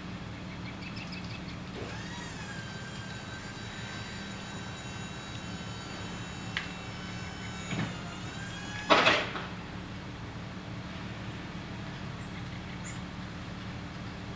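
Delivery truck idling, with a steady electric motor whine for about six seconds, then a loud bang about nine seconds in.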